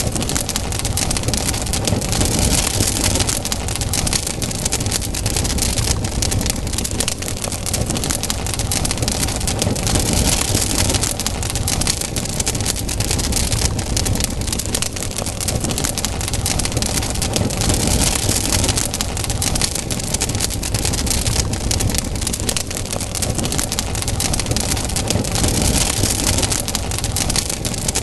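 Wood campfire burning, with dense crackling and popping over a steady low rumble.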